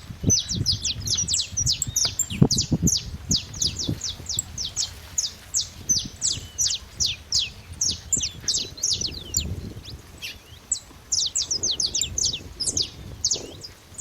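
Saffron finch chirping: a rapid, continuous stream of short, sharp notes, each sweeping steeply downward, several a second. Irregular low rumbling thumps run underneath.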